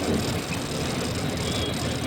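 Steady low rumble of vehicle engines idling in a traffic jam, with trucks among them.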